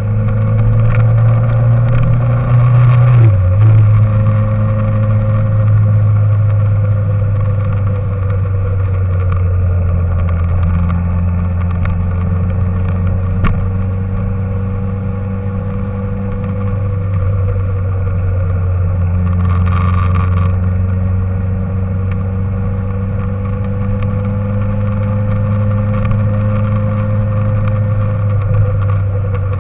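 An engine running steadily, a continuous low drone whose pitch drifts slowly up and down, with a brief change near the start.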